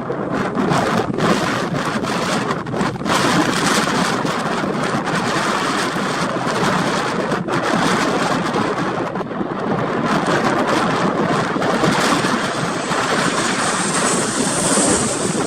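Storm wind buffeting the microphone in loud, gusty rushes, mixed with the engine noise of a jet airliner on approach; a high engine whine swells near the end.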